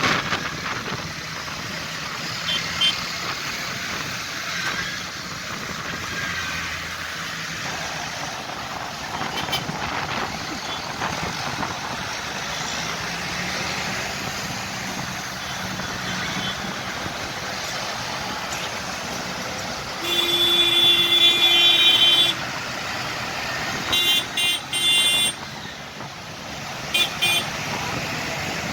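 Tractor engines running steadily as a procession of tractors goes by. About two-thirds of the way through, a vehicle horn sounds for about two seconds, followed shortly by several short toots and one more near the end.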